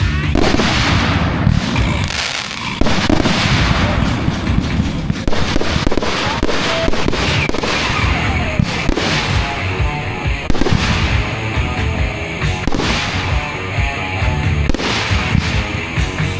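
Fireworks going off in rapid succession: a dense run of bangs and crackle. Music plays underneath and comes through more clearly in the second half.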